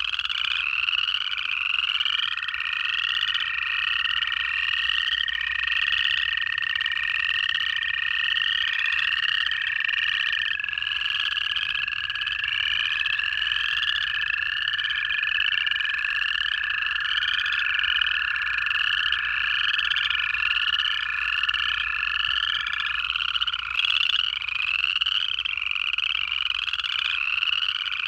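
Night frog chorus of upland chorus frogs giving their rising trill calls over and over, densely overlapping. A long, even trill of American toads starts a couple of seconds in and holds for about twenty seconds.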